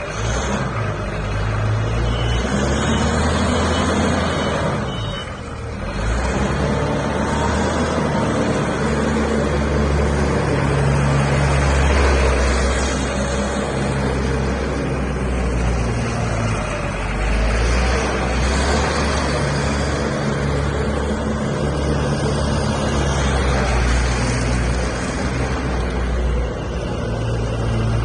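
Diesel forklift's Mitsubishi S6S six-cylinder engine running, its level and pitch rising and falling as it works, with a brief dip about five seconds in.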